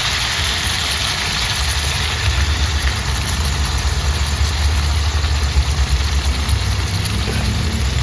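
A steady low rumble under a faint, even hiss from a pan of coconut milk heating over the fire; the hiss is brightest in the first second, just after the coconut milk goes in.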